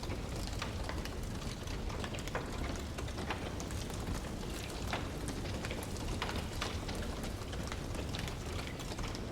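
Wood fire crackling: many small, irregular pops and snaps over a steady low rush.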